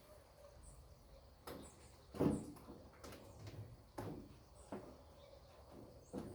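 Handling noise: about five scattered knocks and clunks, the loudest about two seconds in, with quiet between them.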